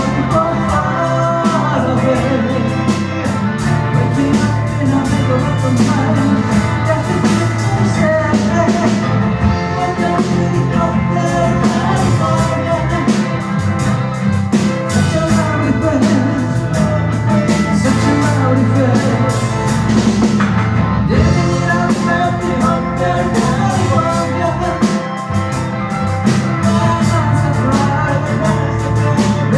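A live rock band playing: drum kit with steady cymbal strokes, over bass and guitars.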